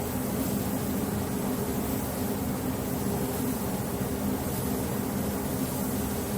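Steady mechanical hum with a low drone and an even hiss, unchanging throughout.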